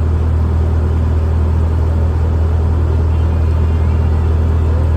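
A riverboat's engine running steadily, a loud, even low drone.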